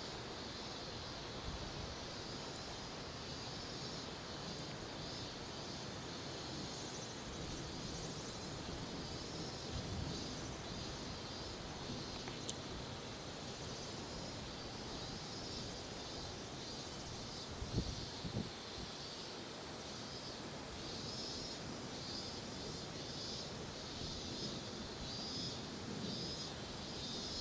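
Outdoor ambience: insects chirping in a steady pulsing rhythm of about three pulses a second, over a low rumble of wind on the microphone. A single brief knock about eighteen seconds in.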